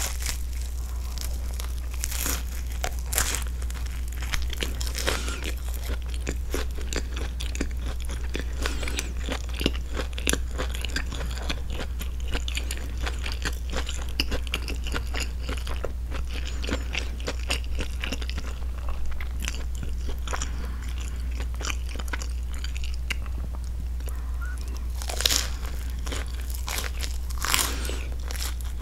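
Close-miked chewing of a grilled broccoli and cheese sandwich: toasted bread crunching with wet mouth clicks, loudest at a bite near the start and at a few crunches near the end. A steady low hum runs underneath.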